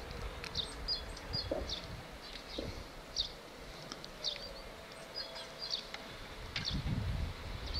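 Small birds chirping: short, high calls scattered several to the second, over a low rumble at the start and again near the end.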